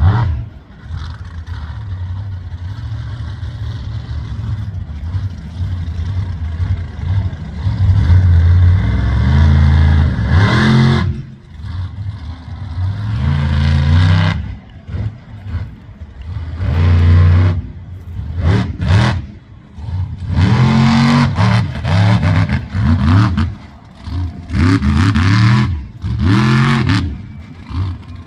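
Monster truck engines revving hard again and again, the pitch climbing and dropping off in repeated loud surges.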